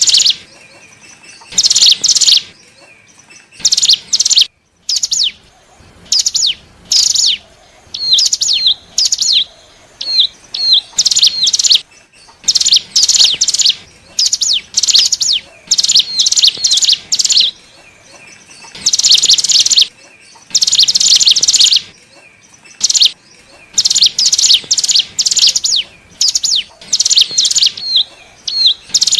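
Ciblek gunung (cigun), a prinia, singing in repeated bursts of rapid, high chattering notes separated by short gaps, with shorter hooked notes between about 8 and 12 seconds in. This is a bird-lure (pikat) song for attracting wild birds of the same species.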